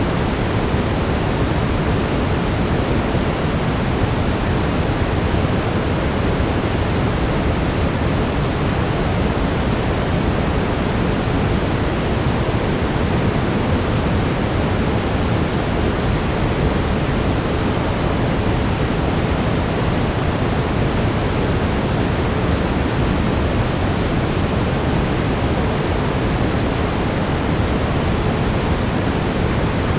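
Steady brown noise: an even, unchanging rushing hiss weighted toward the low end, with a faint steady tone underneath.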